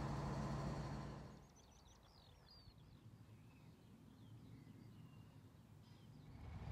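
A steady low engine hum drops away about a second in, leaving birds chirping faintly over quiet outdoor background. A low rumble rises again near the end.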